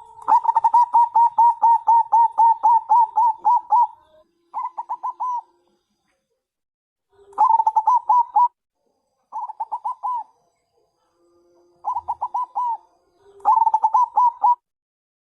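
Zebra dove (perkutut bangkok) calling in rapid runs of short cooing notes, about four a second: one long run of about four seconds, then five shorter runs with pauses between, several opening with a single lower note. It is a calling type used as a lure, the female calling the male.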